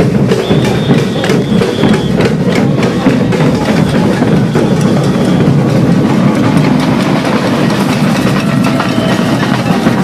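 Marching band music led by drums, played loudly with many sharp drum strikes over a dense background din.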